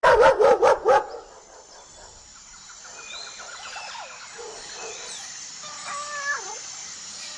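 Animal calls: five loud, quick wavering calls in the first second, then quieter bird-like chirps and another wavering call about six seconds in.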